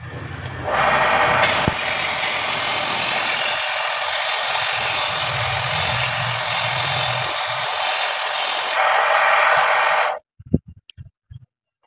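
Homemade wood lathe running with a tool scraping the spinning workpiece: a loud, steady hiss that starts about a second in and cuts off suddenly about ten seconds in, followed by a few light clicks.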